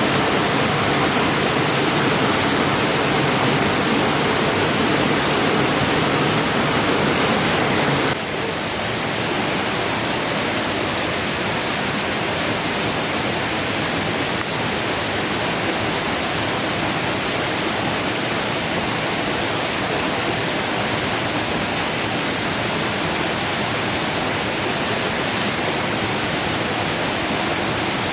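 Heavy rain falling steadily in a dense hiss. About eight seconds in the sound cuts suddenly to a slightly quieter, thinner rain.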